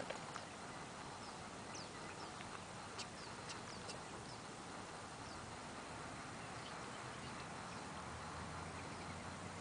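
Scattered short, high chirps and calls of several wild birds, faint over a steady outdoor hiss.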